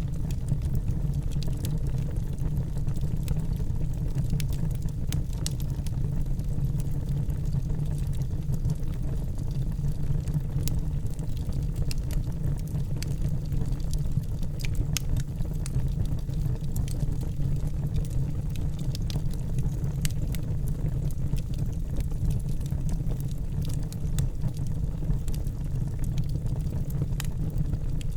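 Wood fire burning in a fireplace: a steady low rumble of the flames with many small crackles and pops scattered irregularly throughout.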